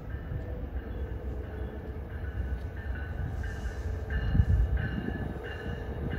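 Train running through the station: a low rumble, with short high tones coming and going in the second half.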